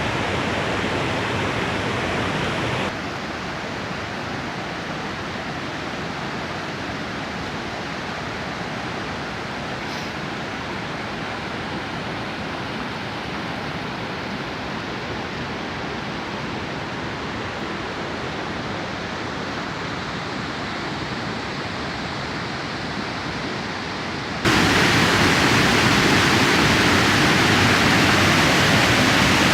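Waterfall rushing: a steady, even noise of falling water. It drops to a quieter level about three seconds in and jumps suddenly louder and brighter near the end.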